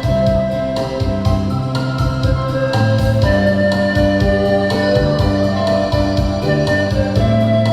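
Pan flute ensemble playing a melody in long held notes over a steady beat.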